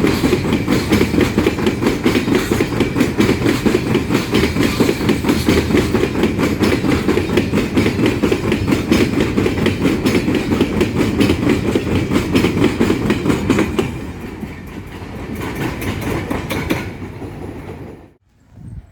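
Empty iron-ore wagons rolling past, their wheels clacking rapidly over the rail joints over a steady rumble. About fourteen seconds in the sound falls away as the end of the train passes, then fades and drops out suddenly near the end.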